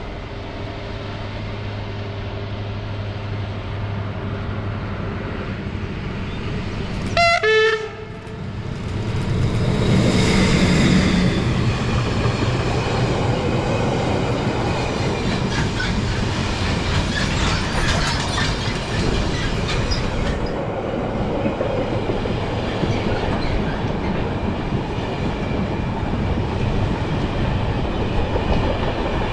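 A train sounds its horn once, briefly, about seven seconds in, after a steady low hum. From about nine seconds on the train passes, running loudly and steadily.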